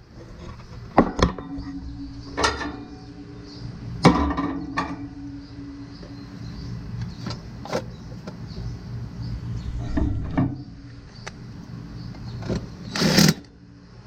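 Clicks and knocks of hand work on an outdoor air-conditioner condensing unit, spaced a few seconds apart over a steady low hum. A louder, harsher noise comes about a second before the end.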